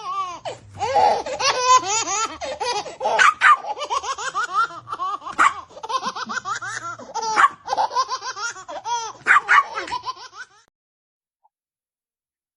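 High-pitched vocal calls in quick rising-and-falling runs, close together, ending abruptly about ten and a half seconds in.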